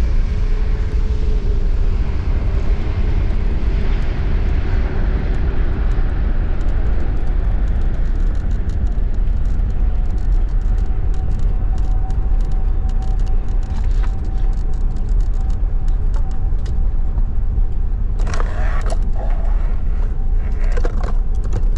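Airbus A380 airliner on the runway heard from inside the cabin: a deep, steady rumble with a rushing noise that dies away over the first several seconds as the aircraft slows, then a faint steady hum, and a few rattles near the end.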